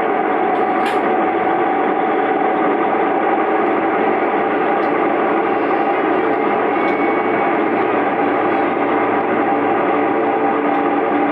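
Iyonada Monogatari diesel sightseeing train running steadily, heard from inside the passenger cabin: an even rumble of engine and wheels on the rails, with a low hum and a faint click about a second in.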